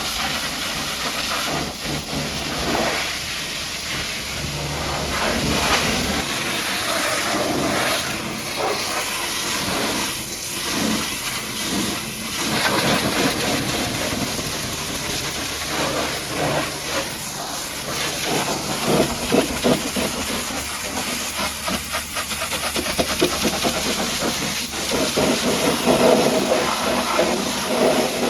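Pressure washer jet spraying water onto a muddy truck: a steady hiss that shifts in tone as the spray moves over different surfaces.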